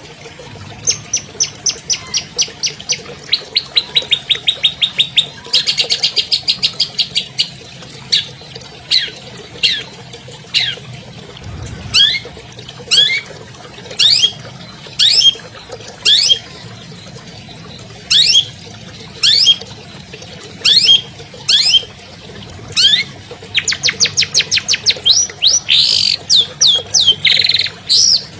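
Long-tailed shrike (cendet) singing: fast ticking trills of about eight notes a second, a short buzzy rattle, then a long run of sharp down-slurred notes about one a second, breaking into another fast trill near the end.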